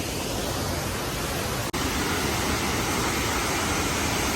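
Steady rushing of a waterfall, an even roar of falling water with no distinct events. About two seconds in it breaks off for an instant and comes back slightly louder.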